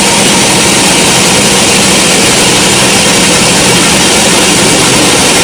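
Sawmill machinery running steadily: a loud, even mechanical noise with a low hum underneath.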